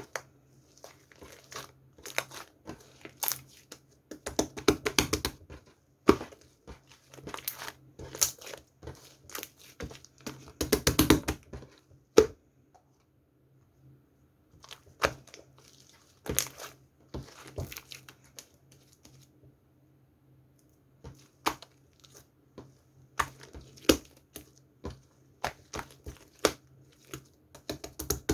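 Slime being squeezed, pressed and stretched by hand, giving sticky clicks and pops in short bursts, with dense runs about five and eleven seconds in. A faint steady low hum runs underneath.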